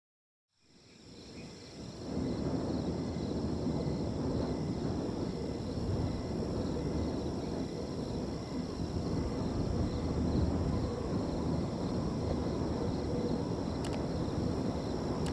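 Wind blowing through a field, a steady rushing noise, with crickets trilling in steady high-pitched lines above it. It fades in over the first two seconds.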